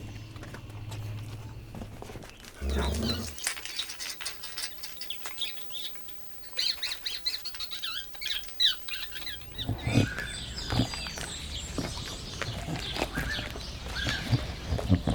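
Small birds chirping in short repeated calls; from about ten seconds in, puppies whimpering and making small yips over them.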